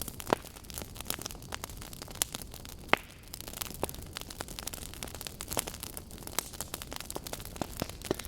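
Burning wood logs crackling, with irregular sharp pops over a soft steady hiss; the two loudest pops come just after the start and about three seconds in.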